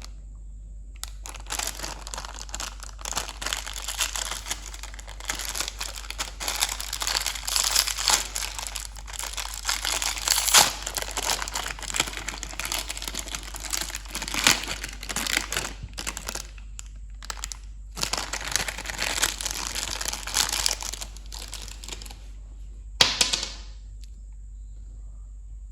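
Candy wrappers crinkling and tearing as candies are unwrapped by hand, in irregular bursts with short pauses, stopping near the end. A faint steady hum and a thin high whine run underneath.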